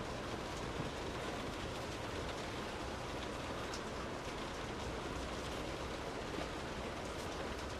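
Steady, even rain falling, with a few faint drops standing out now and then.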